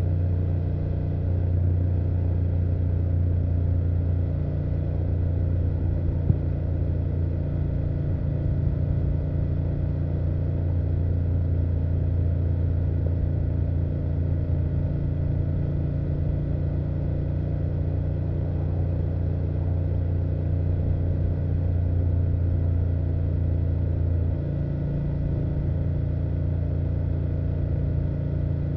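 BMW F800GS parallel-twin engine and exhaust running steadily at a cruise, heard from the rider's position. The engine note shifts slightly about 24 seconds in.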